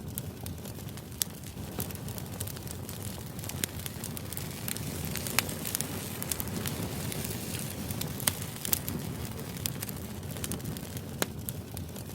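Background white-noise ambience: a steady low rumble with scattered, irregular crackles and pops.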